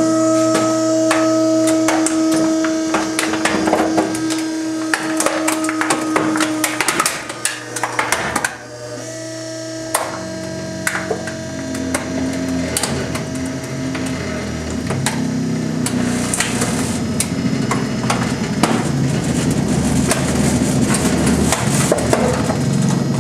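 Microwave oven being crushed in a trash compactor: many sharp cracks, snaps and crunches as its casing and parts break, over the steady run of the compactor's motor, which settles into a lower drone about ten seconds in.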